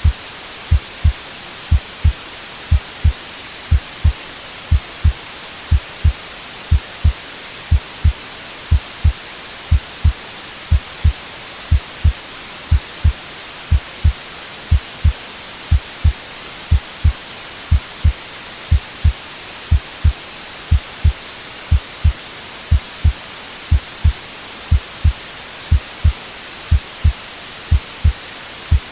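Recorded heartbeat, a steady lub-dub of paired low thumps at about one beat a second, over a constant white-noise hiss.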